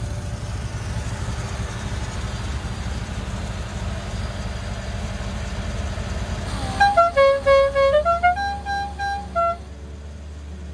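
A car engine idling with a steady low rumble. About seven seconds in, a short tune of a few held notes plays for about three seconds, stepping down and then up in pitch. After it a quieter low hum continues.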